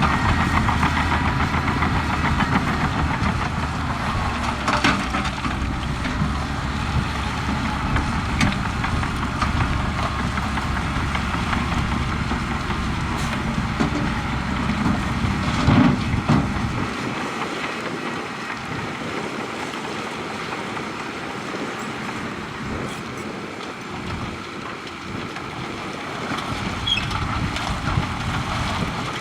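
Heavy diesel construction machinery running steadily under work, with a few sharp metallic clanks. The deep low rumble falls away about two-thirds of the way through.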